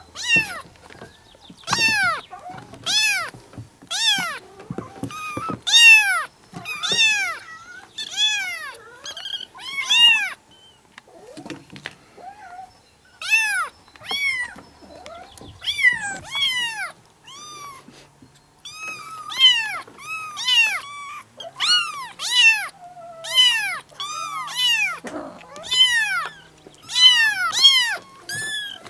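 Kittens meowing: short, high-pitched meows that rise and fall, repeated about once a second, with a brief pause around the middle.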